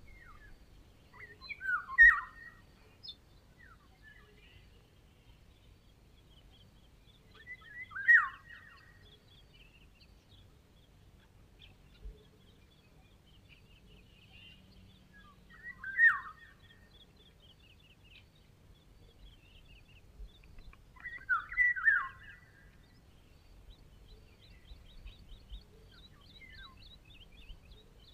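Eurasian golden oriole singing: short fluty whistled phrases that slide downward, four of them spaced several seconds apart, with faint high chirping of other small birds behind.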